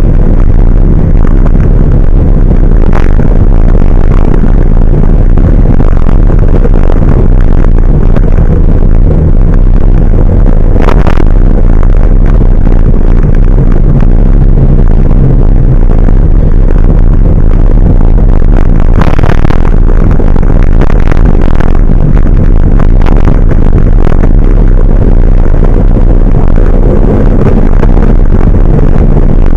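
Large truck's engine running loud and steady, heard from on board, with occasional sharp clatters and knocks.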